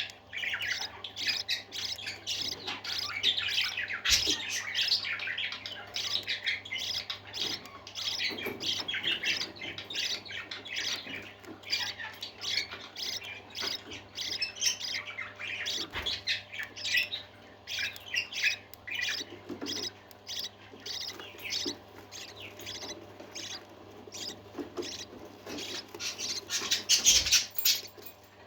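Parakeets chirping and chattering continuously, many short calls overlapping, with a few sharp clicks and the loudest calls near the end.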